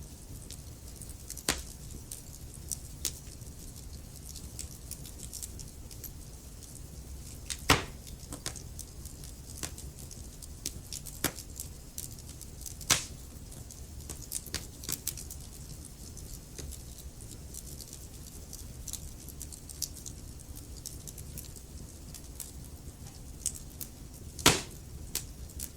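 Wood fire crackling in a fireplace: small irregular snaps and pops over a low steady hiss, with three louder pops.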